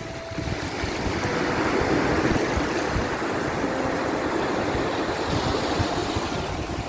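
Ocean surf washing in, one swell building to a peak about two seconds in and easing off. Soft held notes of ambient music sit faintly underneath.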